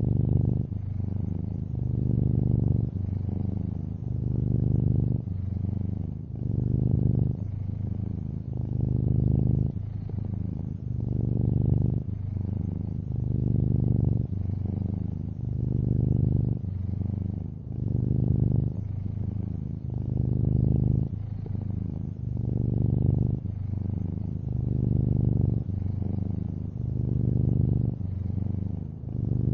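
Long-haired orange tabby cat purring steadily, the purr swelling and easing with each breath about every two seconds.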